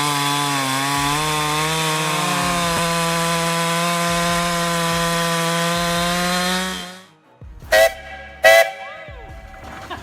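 Chainsaw engine running at a high, steady speed, stopping abruptly about seven seconds in. Two short, sharp ringing knocks follow near the end.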